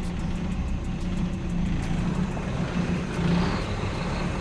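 Old Scania truck's diesel engine running steadily at low revs during slow manoeuvring, heard through an open cab window.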